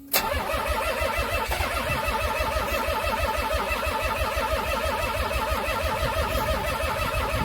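A car's starter motor cranking the engine in a steady, rapid rhythm for about seven seconds without it catching, then cutting off abruptly near the end: a cold engine that won't start.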